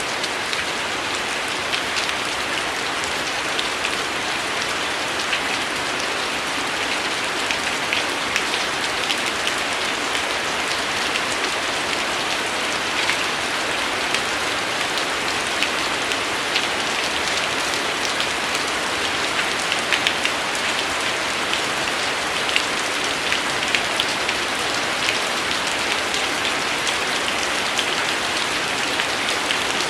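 Steady rain falling on a surface: a constant hiss with many sharp, scattered drop ticks.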